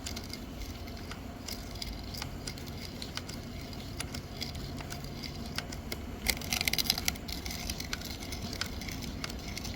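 Sharpening stone of a manual chainsaw sharpener rubbing against a chain cutter tooth: light scraping and scattered clicks, with a denser run of scraping about six to seven seconds in.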